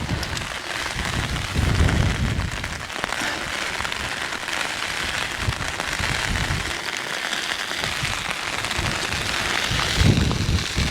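Heavy rain pouring steadily in a dense hiss, with gusts of wind buffeting the microphone about two seconds in and again near the end.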